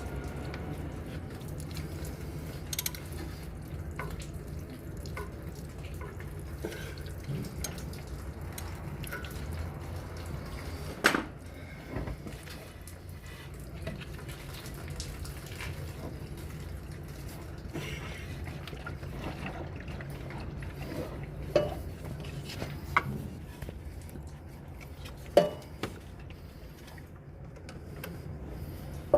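Metal hand tools and engine parts clinking during an oil cooler replacement: a few sharp clinks spread through, over a steady low hum, with liquid dripping and splashing.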